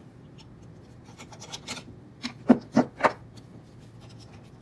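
Parts of a 3D printer's hotend assembly being handled and fitted by hand: light rubbing and clicking, then three sharp knocks about a quarter second apart near the middle.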